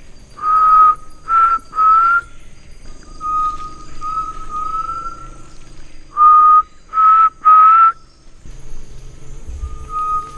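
A man whistling to call a bird, three short rising notes, then three more about six seconds later, with a wild bird answering in between and near the end with fainter, longer whistles at about the same pitch.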